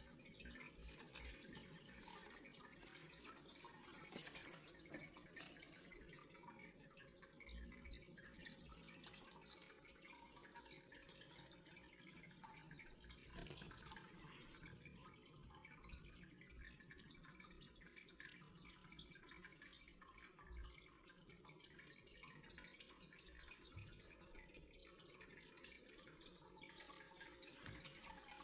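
Near silence: faint room tone with small, irregular ticks scattered throughout.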